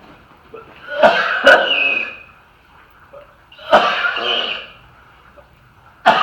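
A person coughing three times, each a sudden harsh burst under a second long, roughly two and a half seconds apart.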